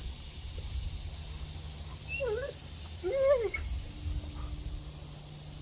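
A dog gives two short whining yelps, each rising and falling in pitch, a second apart, over low rumble of wind on the microphone.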